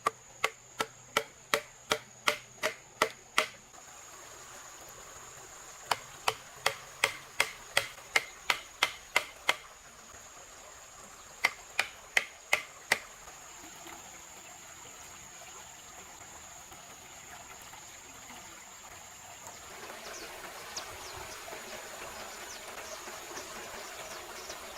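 Three runs of quick, evenly spaced hard strikes, about three a second, as of a tool chopping or hammering, over a steady high-pitched insect drone. Near the end a soft hiss with faint ticking comes in.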